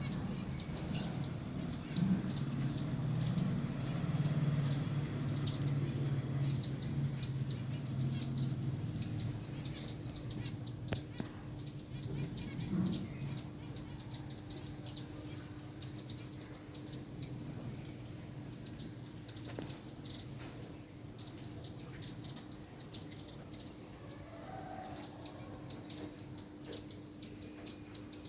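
Small birds chirping over and over in quick, short high notes. A low rumble underneath fades away about a third of the way in, and a faint steady hum runs under it all.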